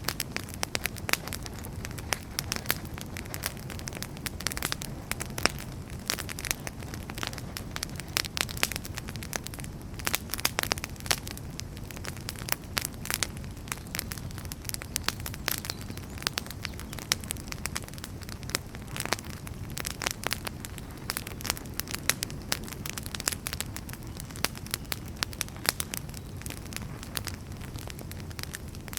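Wood fire burning: frequent sharp, irregular crackles and pops over a steady low rumble of the flames.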